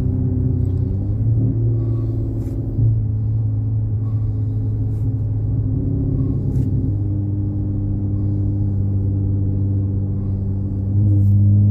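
Car engine and MagnaFlow exhaust droning steadily while driving, the pitch stepping a little a few times, then getting louder near the end as more throttle is given.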